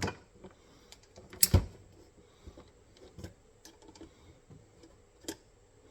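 Scattered metal clicks and taps from a steel MB-550 foothold trap being handled and bent straight with a tool, with one sharp, loud click about a second and a half in.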